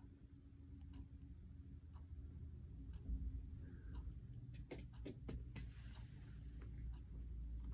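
Faint, scattered clicks and taps as an African grey parrot works at a back scratcher with its beak.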